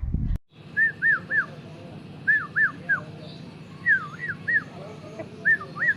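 A bird calling: a whistled phrase of two or three rising-and-falling notes, repeated about every second and a half over a steady low hum.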